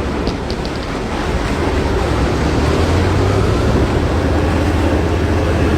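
Heavy engine running steadily, a low rumble mixed with wind and water noise, with a few short high chirps about half a second in.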